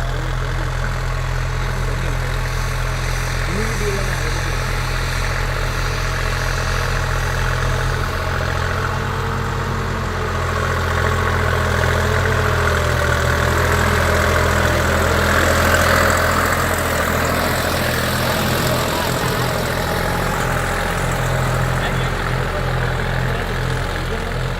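Deutz-Fahr 50 hp tractor's diesel engine running steadily, swelling somewhat louder for a few seconds mid-way before settling back.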